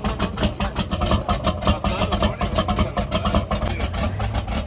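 Twin-turbo limousine's engine running with an even, rapid pulsing beat of about six pulses a second. The engine is not yet tuned.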